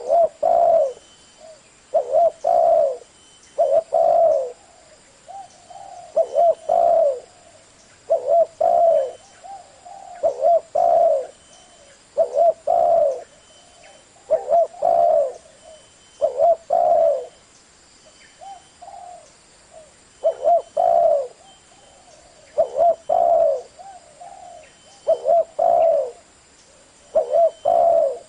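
Spotted dove cooing, short coos grouped into phrases that repeat every couple of seconds, with brief pauses between them: a 'giọng thổ' voice call of the kind played to get decoy doves calling.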